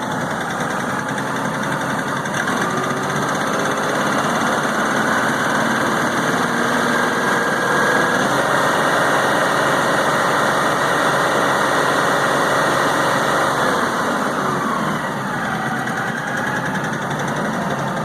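LS XR4155 tractor's diesel engine running rough, which the owner says is missing on one cylinder. The revs climb a couple of seconds in, hold higher, then drop back down about three-quarters of the way through.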